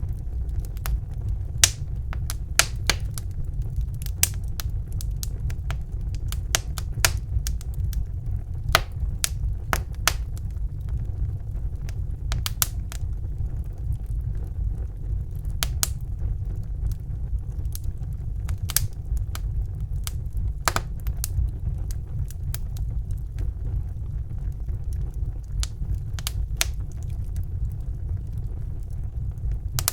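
Fireplace fire crackling: irregular sharp pops and snaps, several a second at times, over a steady low rumble of the flames.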